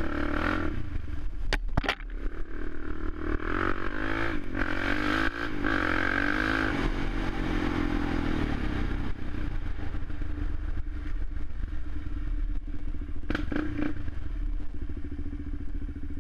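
Suzuki LTZ 400 quad's single-cylinder four-stroke engine running, its pitch wavering up and down for a few seconds. There are a couple of sharp clacks about two seconds in.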